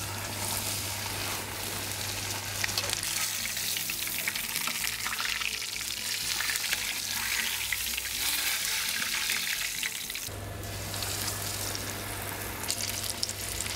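Breaded crocodile schnitzels shallow-frying in plenty of hot fat in a pan, a steady sizzle full of small crackling spatters.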